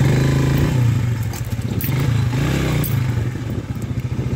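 Mondial 150 KT's single-cylinder four-stroke engine picking up above idle, its pitch rising and falling as the bike is moved over rough grass, with scraping and clatter from the bike partway through. Near the end it settles back into an even idle.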